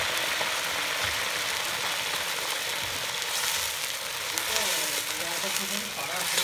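Food frying in hot oil in a wok, a steady sizzle, with a metal ladle stirring it from about four seconds in.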